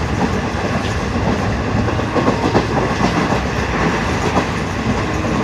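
Train running along the track: a steady rumble with the irregular clatter of wheels over the rails.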